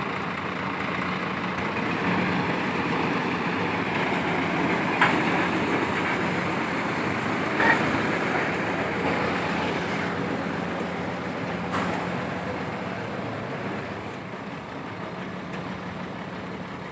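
Heavy diesel engine running steadily with a low hum, with three short sharp knocks spread through it; it grows a little quieter towards the end.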